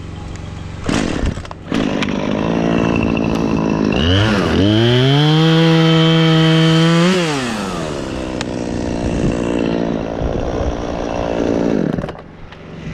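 Chainsaw running at idle, then revved to full throttle about four seconds in and held there for about three seconds while cutting through a tree limb, before dropping back to idle and stopping near the end.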